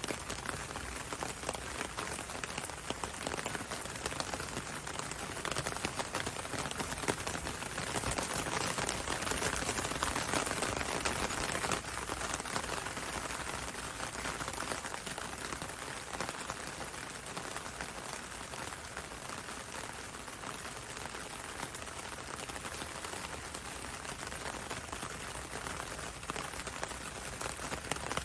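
Steady rain on a window and a road, with many separate drops ticking over the hiss. It grows a little heavier about a third of the way through, then eases back.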